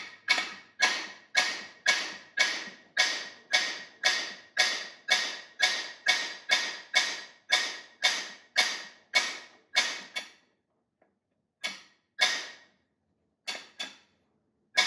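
Hammer blows on the driver of a Lisle 18000 cam bearing tool, driving a cam bearing home in a small-block Ford block: a steady run of sharp metallic strikes, about two a second, each with a brief ring. After about ten seconds they give way to a few scattered taps.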